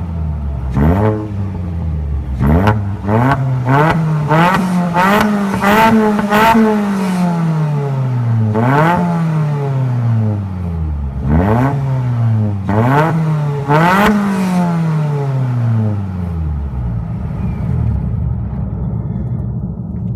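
Early Alfa Romeo 147 1.6 Twin Spark four-cylinder revved again and again through an ASSO centre pipe and ARJ muffler, with the silencer removed and the catalyst kept. Each blip rises sharply and falls back more slowly, about a dozen in all, with the sound echoing in a tunnel. Near the end the engine settles to a steady idle.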